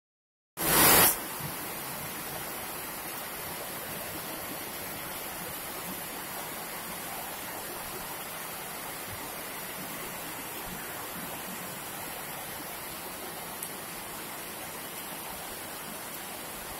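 Heavy rain falling, a steady even hiss. It opens with a brief, very loud burst of noise about half a second in.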